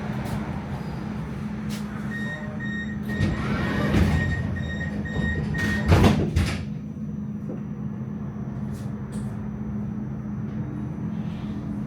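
Tram door-closing warning: a run of short, evenly spaced high beeps for about three seconds, then a loud knock as the sliding doors shut. Under it the tram's electrical equipment hums steadily, and after the doors close a thin high whine runs on.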